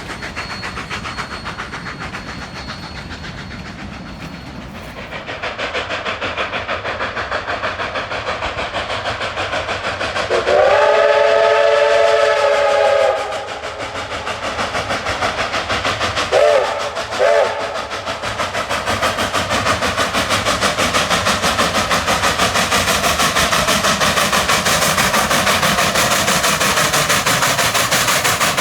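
Coal-fired D&RGW K36 2-8-2 narrow-gauge steam locomotive working under load, its exhaust beating rapidly and growing louder. Its chime whistle sounds one long blast about ten seconds in, then two short toots.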